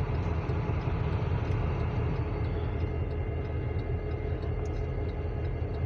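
Steady low rumble of an approaching freight train's diesel locomotives, with a constant hum over it.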